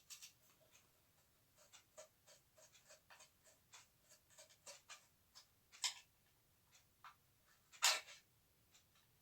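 A run of small irregular clicks and taps from parts being handled, with two louder, longer scraping knocks about six and eight seconds in.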